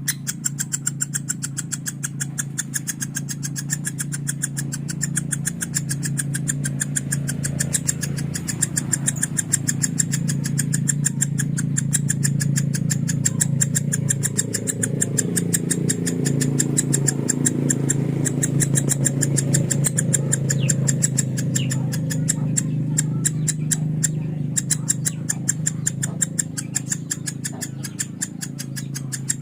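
Lovebird singing its 'konslet' song: a long, rapid, even run of clicking chatter notes, over a steady low hum.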